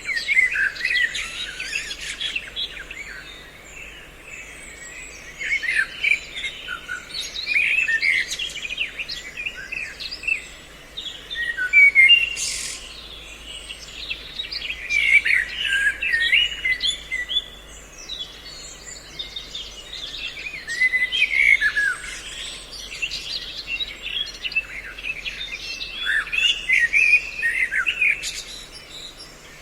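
Several songbirds calling together in a mixed bird-lure recording: quick chirps and whistled phrases come in bursts every few seconds, separated by short lulls. A faint steady low hum runs underneath.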